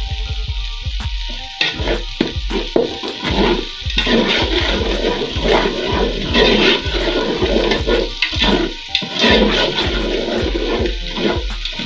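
Background music with a steady beat over a dense rushing sizzle of onions, pepper and crayfish frying in groundnut oil in a pot.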